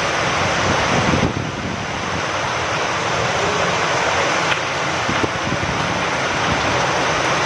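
Steady rain falling with wind, a constant rushing hiss that eases briefly just after a second in.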